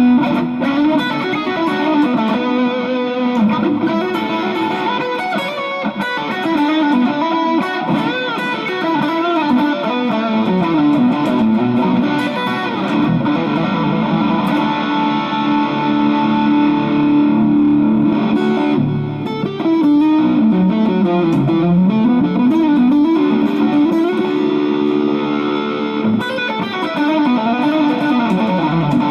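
Electric guitar fitted with a Duncan-style 102J treble bleed on its volume pot and an Orange Drop 223J (0.022 µF) tone capacitor, playing melodic lines with many string bends and pitch slides.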